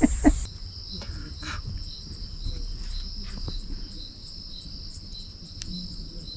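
Crickets calling: a steady high trill with an even pulsing beat, several pulses a second.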